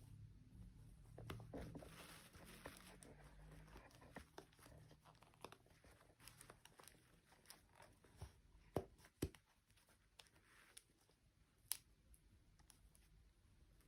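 Faint handling noises: soft rustling and crinkling in the first few seconds, then scattered short sharp clicks and taps.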